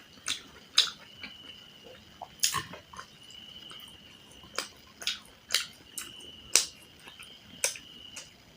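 Close-miked chewing and wet mouth smacks of someone eating a chicken curry meal: sharp, irregular clicks about once or twice a second.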